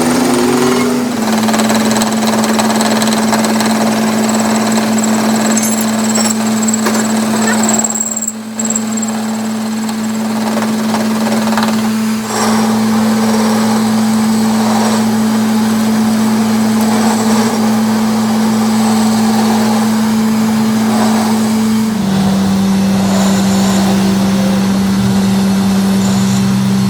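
Metal lathe running steadily with a constant hum and a rough, grinding layer over it. The hum steps slightly lower in pitch near the end.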